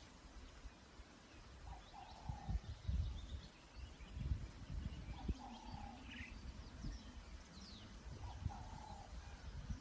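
Birds calling outdoors: a short low call repeats about every two and a half seconds, with scattered higher chirps and quick falling whistles over it. Irregular low rumbles and thuds come and go through the middle and are the loudest sounds.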